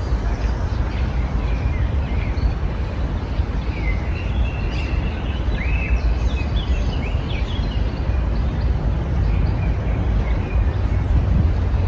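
Small songbirds chirping and trilling in short phrases, busiest in the middle, over a steady low rumble.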